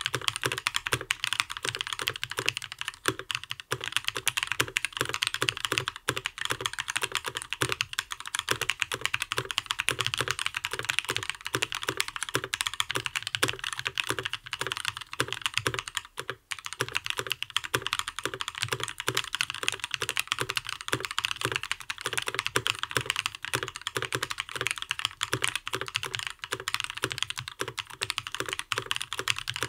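Continuous fast typing on a custom mechanical keyboard with lubed Gazzew "LT" linear switches, ePBT PBT keycaps and an aluminium plate, the case filled with foam. The strokes run rapidly and steadily, with a brief break about halfway through.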